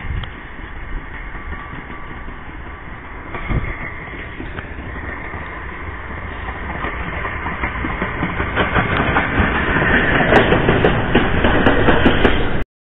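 A1 Pacific three-cylinder 4-6-2 steam locomotive 60163 Tornado running light engine, getting steadily louder as it approaches, with a rising clatter of clicks and knocks. The sound cuts off suddenly near the end.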